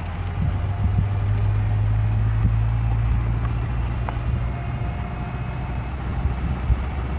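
Motor vehicle engine running with a steady low drone, with a few light knocks.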